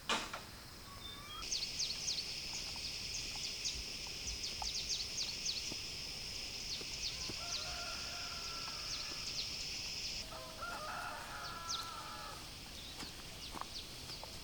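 A rooster crowing twice, the second crow louder, over a steady high-pitched buzz that cuts off suddenly about ten seconds in, with birds chirping. A sharp knock at the very start.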